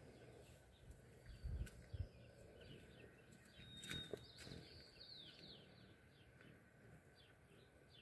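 Faint birdsong: small birds chirping over and over with short falling notes. A couple of low thumps come about one and a half to two seconds in, and a short click about four seconds in.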